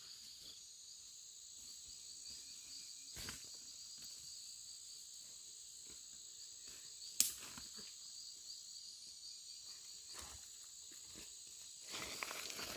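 Faint, steady high-pitched chorus of insects such as crickets or cicadas. A single sharp click stands out about seven seconds in and a smaller knock about three seconds in, with rustling starting near the end.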